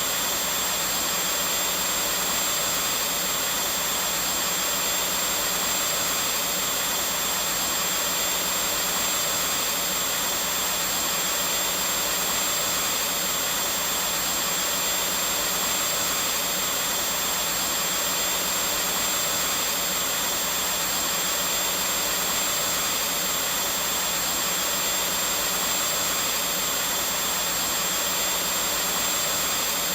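Vacuum cleaner running steadily: a constant rushing hiss with a thin high whine and a low hum, never changing in level.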